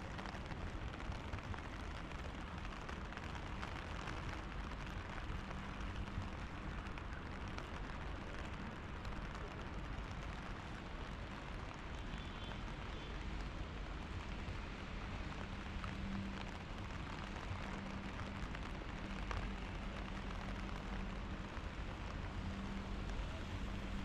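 Steady rain falling on a paved street, an even continuous hiss with a low rumble beneath.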